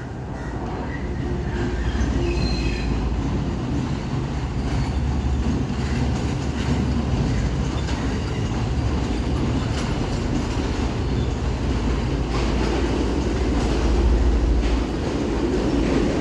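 A train moving through the station: a steady low rumble that grows over the first two seconds, wheels clattering over the rail joints, and a faint high wheel squeal about two seconds in.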